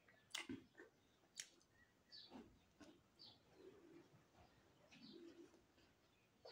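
Faint chewing of a crisp fried samosa, with sharp mouth clicks about once a second early on and a few soft low sounds near the end.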